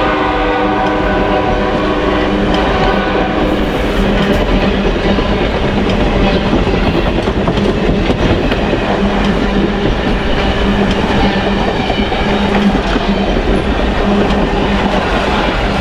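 A train passing close by. Its locomotive horn sounds over the first few seconds and fades out, leaving the steady rumble and clatter of the wheels and cars on the rails.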